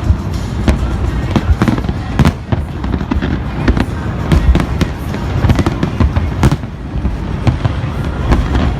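Fireworks display with many shells bursting in quick succession: sharp bangs and crackles, several a second, over a continuous rumble.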